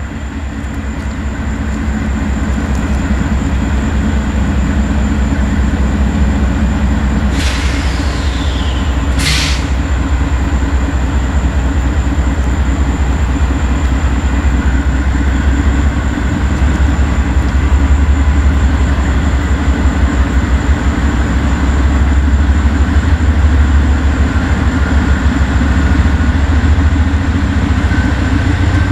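Freight train rolling past with a steady, rhythmic chugging rumble of wheels and cars, growing a little louder later on. Two brief high squeals sound a second or so apart, about a third of the way in; the first falls in pitch.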